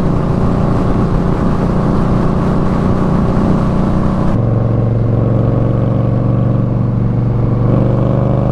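2021 Indian Scout Bobber 60's V-twin engine running steadily while riding, with wind rush over it. About four seconds in, the hiss drops sharply and the engine settles to a lower, steady note.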